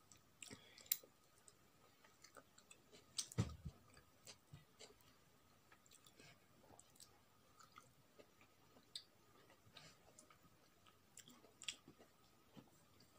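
A person chewing and smacking while eating with her fingers: faint, scattered mouth clicks, with one louder knock about three and a half seconds in.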